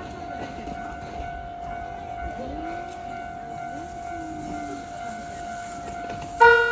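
A steady high tone sounds over faint crowd chatter. Near the end, the Shin-Keisei 8800 series train's horn gives a loud, sudden blast.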